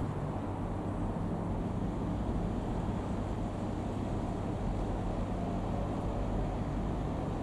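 Airbus A380's four jet engines, a steady low rumble with a faint even hum that neither rises nor falls.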